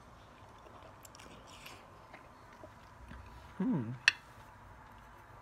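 A person eating instant noodles, with faint chewing and small mouth clicks. About three and a half seconds in comes a short hummed "mm" that falls in pitch, and a sharp click follows just after.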